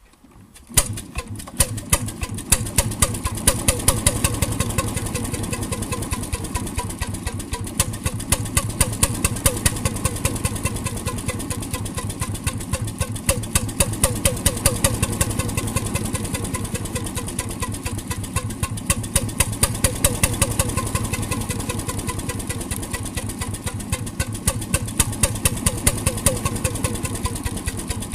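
RSM 3½ HP hotbulb marine engine running, a steady rapid train of sharp knocks over a low hum. It comes in suddenly about a second in.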